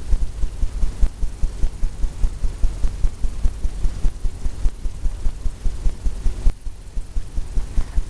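A brush worked in quick strokes over a stretched canvas, making a rapid run of dull low thumps, about four or five a second, with a soft scrubbing hiss.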